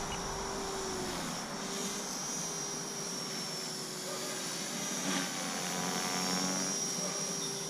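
T-Rex 450 electric RC helicopter in flight, its motor and rotor giving a steady whine with a high tone held throughout.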